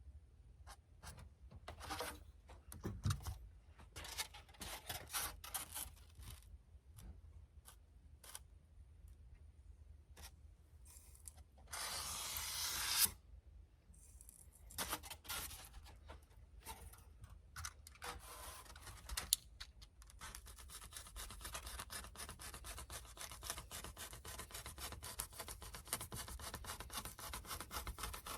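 Rubbing, scraping and handling noises of materials being worked by hand, with a louder stretch of scraping noise lasting about a second and a half near the middle that builds and then stops, and a steady run of quick scratchy strokes through the last third.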